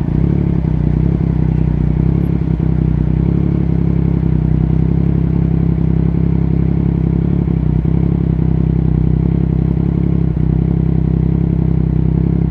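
Yamaha MT-09's three-cylinder engine idling steadily through an Akrapovic racing exhaust, with a light mechanical clatter. It cuts off suddenly at the end.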